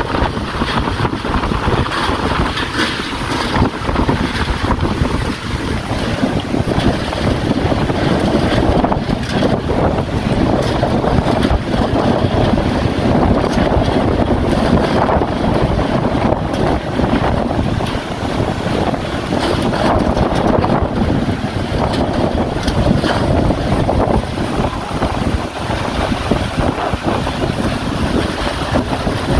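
Strong wind gusting through rain, with the wind buffeting the microphone in a steady rushing noise that swells and eases a little.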